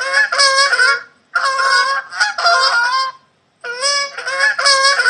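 Goose honking: three bursts of loud, repeated honks, two or three honks in each, with short pauses between.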